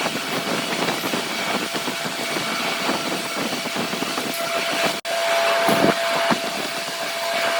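Steady mechanical noise of heavy workshop machinery running, with a brief break about five seconds in, after which a steady whine runs for about two seconds.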